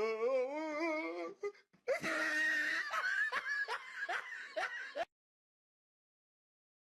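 People laughing, a wavering held laugh first and then noisier laughter, cutting off abruptly about five seconds in to dead silence.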